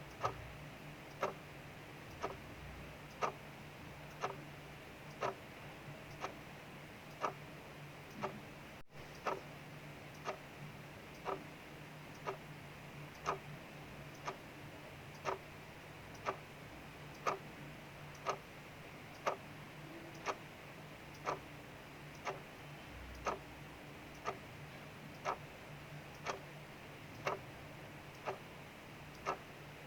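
Mechanical clock ticking evenly, about one tick a second, over a steady soft hiss of rain.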